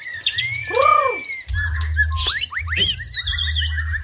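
White-rumped shama singing: clear whistled notes that arch and glide up and down, followed by quicker rising and falling phrases, over a steady low hum.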